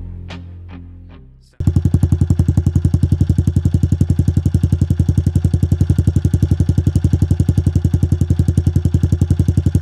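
Guitar music fading out, then, about a second and a half in, a pit bike's single-cylinder engine cuts in loud, idling with a steady rapid putter through its new aftermarket exhaust.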